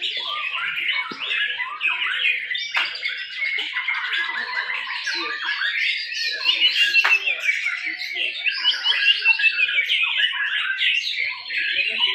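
White-rumped shamas (murai batu) singing over one another in a dense, continuous stream of quick whistles, trills and chips, with no pause.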